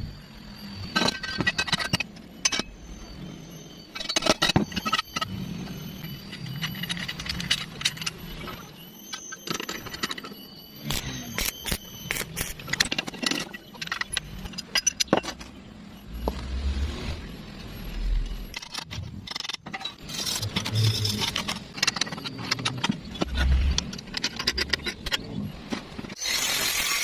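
Irregular clattering and scraping with many sharp clicks and short high squeals, as of hard objects being handled and dragged.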